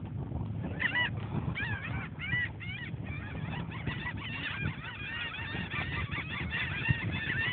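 A flock of birds calling, with many short calls rising and falling and overlapping one another almost without a break.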